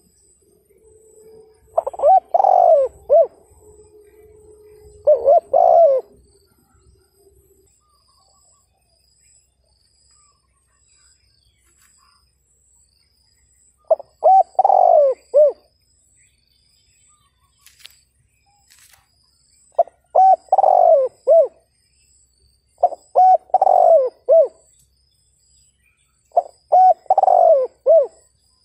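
Spotted dove cooing in the 'thúc gù' style: six short phrases of several quick notes each, spaced a few seconds apart.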